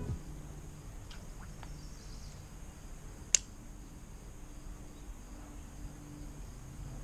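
Quiet outdoor background noise with a few faint chirps about a second in and one sharp click a little after three seconds.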